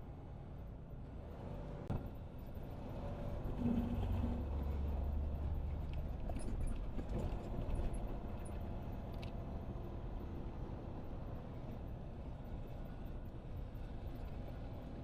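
Semi-truck running with a steady low rumble, swelling louder for a few seconds about three seconds in, with a single click about two seconds in.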